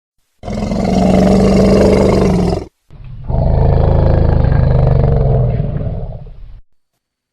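Elephant roaring twice: a loud, rough call of about two seconds, then after a brief gap a longer one of nearly four seconds that fades at the end.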